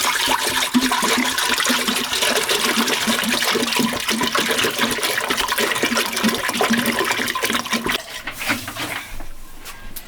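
Water rushing or pouring steadily for about eight seconds, then tapering off.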